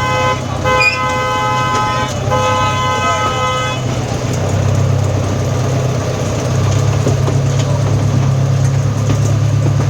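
Horn of a small park ride train sounding in three long, steady blasts at one pitch with short breaks, over the low, steady hum of the train running.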